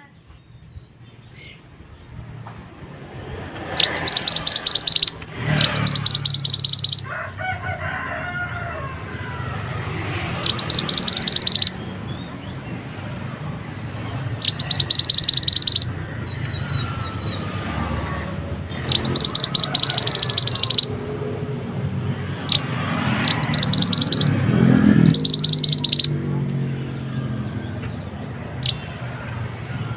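Pied bushchat (burung mantenan) singing in repeated bursts of a very fast, tightly rolled, high trill, each burst one to two seconds long, about eight bursts in all, with short gaps between them.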